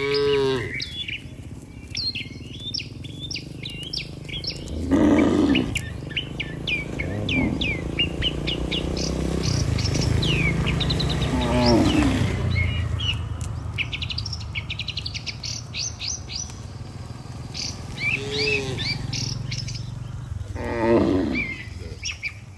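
Cattle mooing about five times: once right at the start, then near 5 s, 12 s, 18 s and 21 s in, each a low drawn-out call, over a constant chorus of small birds chirping. A low steady rumble sits underneath through the middle stretch.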